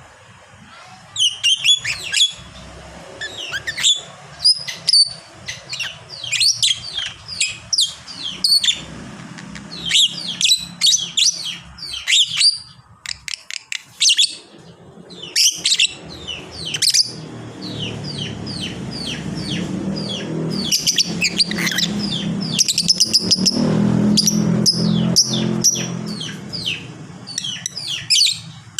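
Lovebird chattering in long 'ngekek' runs: rapid, high-pitched chirps strung together in repeated bursts. A low hum underneath grows louder in the second half, then fades near the end.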